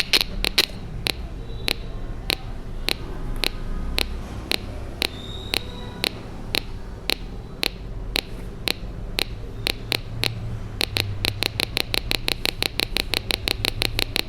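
Small speaker driven by a two-transistor (547 NPN / 557 PNP) capacitor-based oscillator, clicking in an even heartbeat-like pulse, about two clicks a second. About eleven seconds in the clicks speed up to about four a second.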